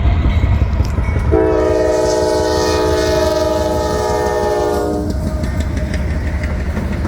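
Diesel locomotive air horn sounding one long chord of several notes, starting about a second in and stopping about five seconds in, over the steady low rumble of the passing train.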